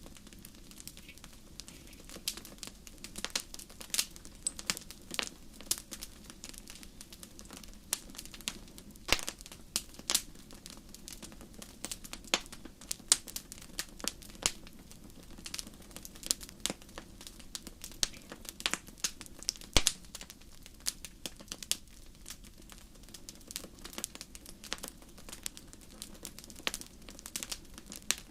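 Wood fire crackling: irregular sharp pops and snaps, several a second, over a steady low hiss of burning.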